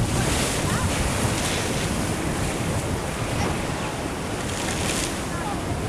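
Ocean surf washing in a steady wash with brief hissing surges, and wind rumbling on the microphone.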